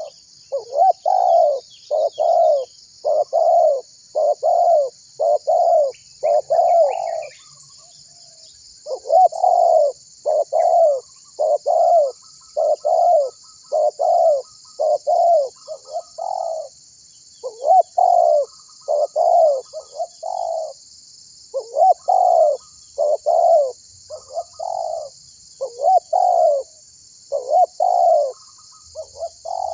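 Spotted dove cooing, the tekukur's call used as a lure: short coo notes repeated about once a second in runs, with brief pauses between the runs. A steady high-pitched hiss or buzz runs underneath.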